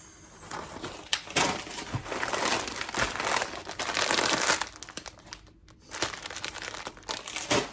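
Crinkly plastic snack packaging, a bag of chips, rustling as it is handled, in irregular spells with a short pause a little after five seconds in.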